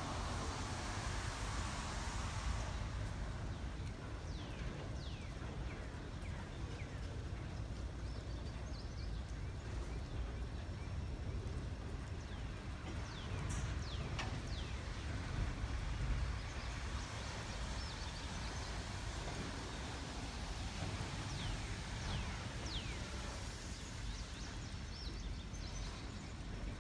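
Birds calling in short, falling chirps over a steady low rumble.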